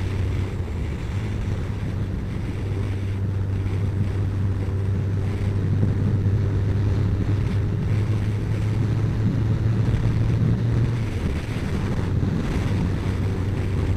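Kawasaki ZZR1400's inline-four engine running at a steady cruise, with wind rushing over the microphone.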